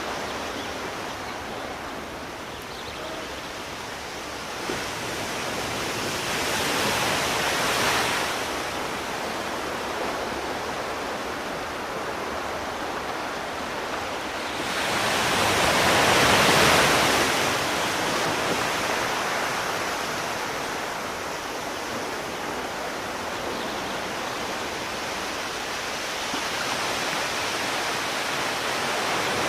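Sea waves breaking and washing ashore, a steady rush of surf that swells twice: a smaller wave about seven seconds in and a larger, louder one around the middle.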